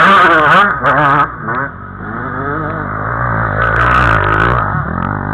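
Enduro dirt-bike engines revving up and down as riders go by, the pitch rising and falling repeatedly, louder again about four seconds in.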